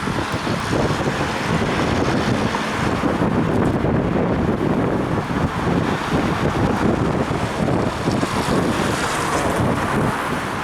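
Wind rushing over a head-mounted action camera's microphone while riding a bicycle: a steady, loud noise with a ragged low rumble under a hiss.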